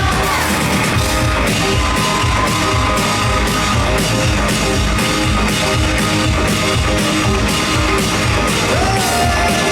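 A live rock band playing loud, with electric guitar and a drum kit keeping a steady beat; a voice comes back in singing near the end.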